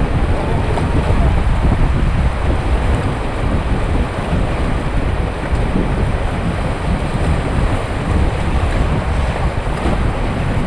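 Rushing white water of the Beas River heard from a raft, a steady loud roar with wind buffeting the microphone.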